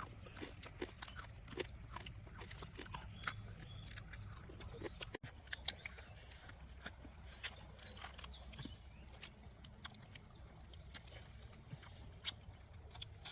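A person eating and chewing, with many short, sharp clicks and crunches scattered through.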